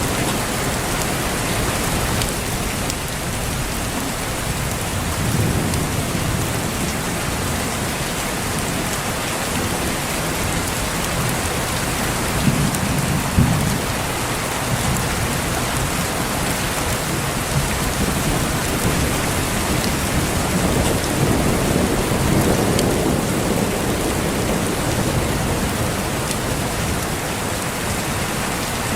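Steady heavy rain falling, with low rolls of thunder rumbling about three times: about a sixth of the way in, near the middle, and a longer roll past two-thirds of the way through.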